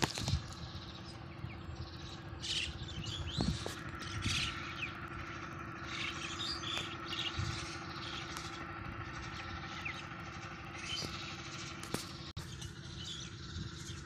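A flock of small birds chirping, many short overlapping calls scattered throughout, over a steady low hum.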